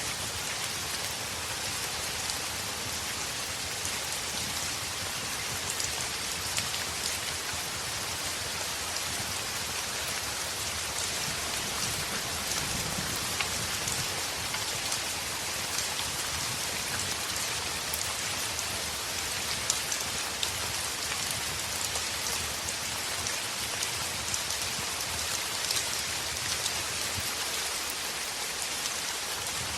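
Heavy rain falling on a window: a steady hiss with scattered sharp ticks of individual drops.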